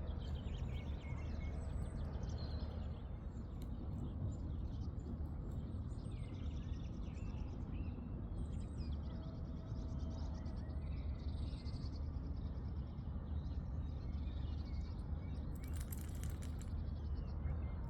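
Small birds chirping and singing in short, scattered calls over a steady low rumble.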